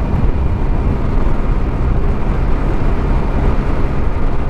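TVS Scooty Zest scooter riding at road speed: steady wind rush over the microphone with engine and road noise beneath.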